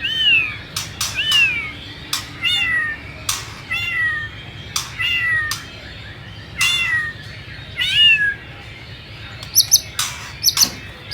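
White-rumped shama giving a series of about eight downward-sliding, meow-like notes, each under a second long, with sharp clicks between them. Near the end come quick, very high notes.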